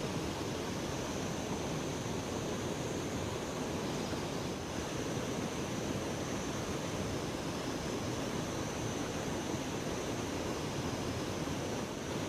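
Steady rushing of river water, an even noise with no breaks or distinct events.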